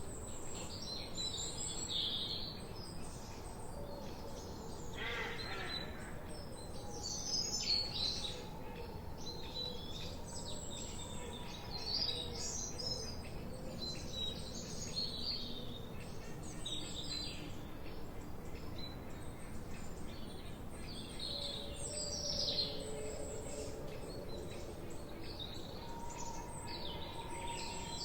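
Forest birds chirping and singing, many short high calls and trills overlapping throughout, over a steady low background noise.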